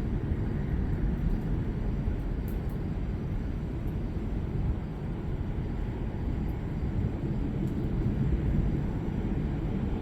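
Steady low rumble of a thunderstorm that rises and falls slightly without any sharp crack.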